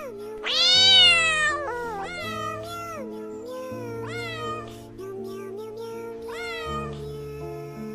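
A cat meowing several times over soft background music. The loudest and longest meow comes about a second in, followed by shorter meows.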